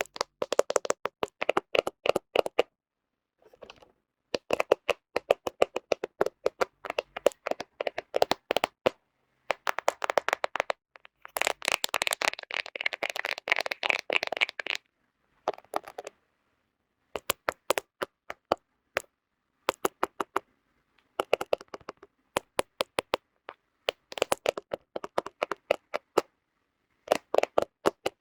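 Fingernails tapping on a smartphone camera in quick runs of sharp clicks, broken by short silent pauses. Around halfway through the tapping turns into a few seconds of continuous scratching.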